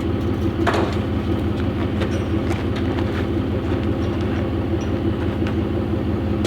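Truck engine running steadily under way at low speed: a low, even drone with a few faint rattles.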